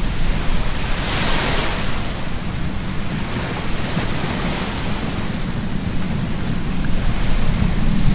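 Ocean surf washing on the beach, a wave breaking and hissing about a second in, with wind buffeting the microphone in a low rumble.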